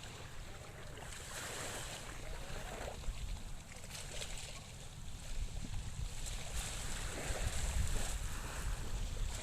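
Calm sea with gentle wind buffeting the microphone as a steady low rumble, growing a little louder near the end.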